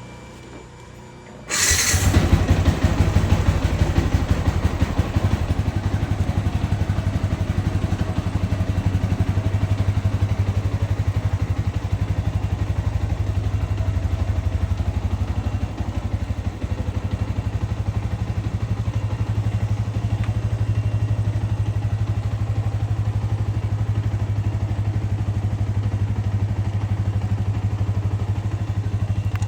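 Yamaha Vixion's single-cylinder motorcycle engine running steadily, coming in suddenly with a loud burst a second and a half in.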